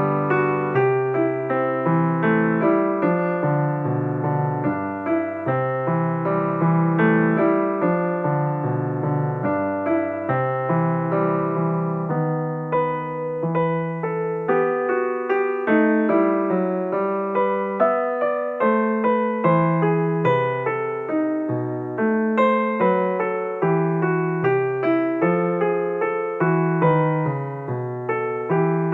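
Background piano music: a steady flow of gently struck notes with a bass line and chords.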